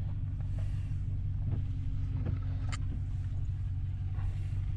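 Steady low rumble of a car's engine and tyres heard from inside the cabin, with a faint steady hum and a few light ticks.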